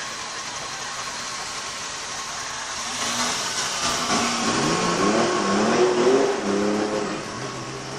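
A car engine revving several times, its pitch rising and falling repeatedly, starting about three seconds in.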